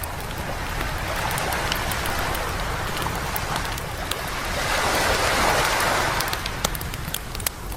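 Waves washing up on a beach, swelling twice, the second louder, with the sharp pops and crackles of a wood campfire throughout.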